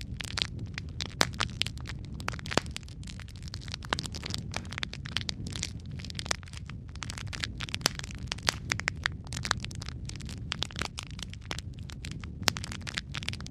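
Wood fire of burning logs crackling, with many irregular sharp pops and snaps over a steady low rumble of the flames.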